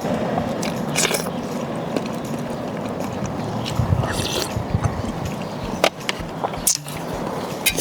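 Close-up eating sounds: biting and chewing, with scattered sharp clicks and a couple of crisp bursts, over a steady background hiss.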